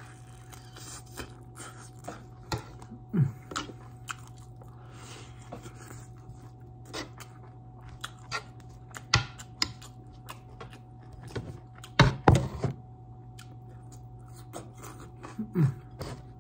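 Close-up eating sounds of a barbecued turkey leg being bitten and chewed: wet chewing and lip smacks, with scattered sharp clicks of a spoon against the plate, the loudest a cluster about twelve seconds in. Twice a short falling 'mm' sound.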